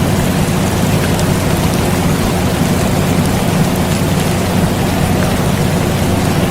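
Air conditioner running with a steady low hum, mixed with the even hiss of steadily falling rain and faint raindrop patter.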